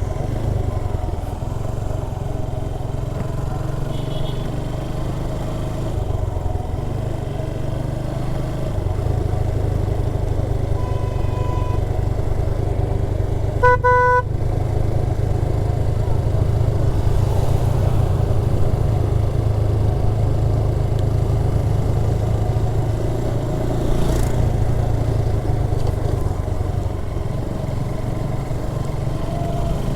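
Motorcycle engine running steadily in low gear, held back on engine braking down a steep, muddy descent. A vehicle horn beeps once, briefly, about halfway through.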